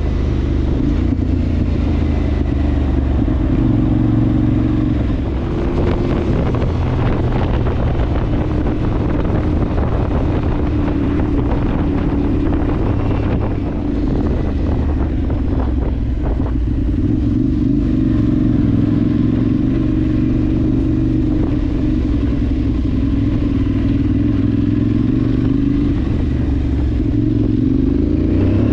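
Adventure motorcycle's parallel-twin engine running at a fairly steady speed while riding, with wind and road noise on the microphone.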